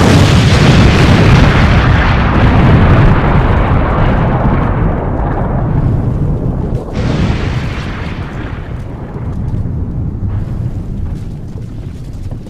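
Explosion sound effect: a sudden loud blast followed by a long rumbling decay, with a second, smaller burst about seven seconds in.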